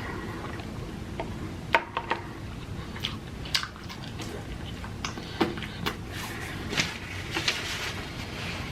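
Close-miked chewing and eating mouth sounds: wet smacks and short sharp clicks scattered irregularly over a low steady background.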